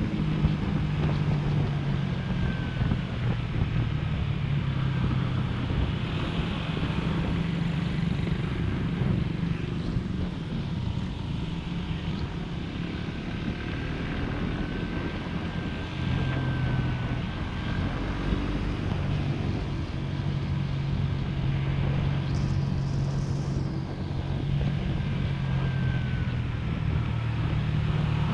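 Small motorcycle engine running under way while riding. The engine note eases off for a few seconds midway, then picks up again.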